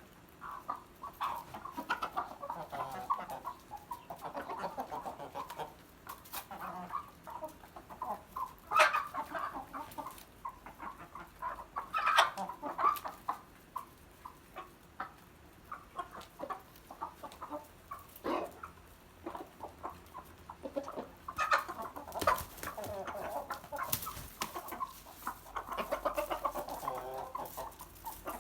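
Aseel chickens clucking, many short calls in bunches throughout, with a few sharp clicks or knocks in between.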